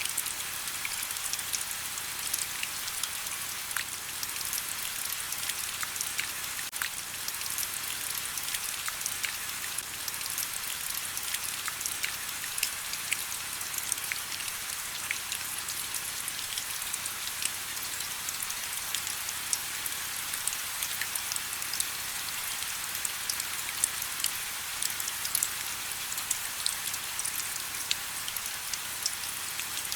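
Steady rain, a constant hiss thick with the small ticks of individual drops hitting surfaces.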